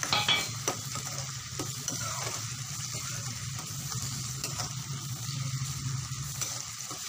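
Chopped tomatoes sizzling in hot mustard oil with fried onion and ginger-garlic paste, stirred with a metal spoon that clicks and scrapes against the pan. The sizzle flares loudest right at the start, as the tomatoes go in.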